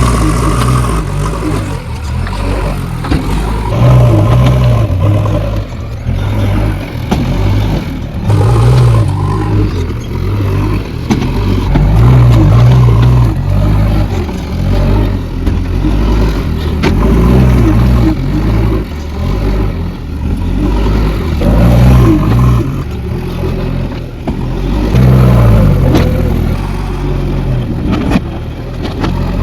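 JCB backhoe loader's diesel engine working, swelling in loud surges every four to five seconds as the machine takes load, with a few sharp knocks.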